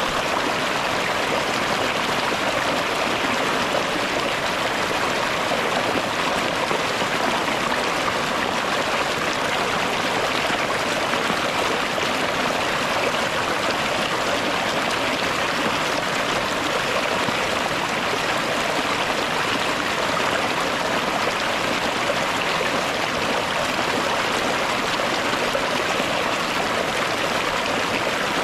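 Heavy rain falling steadily, a dense even rush of noise with no breaks or changes.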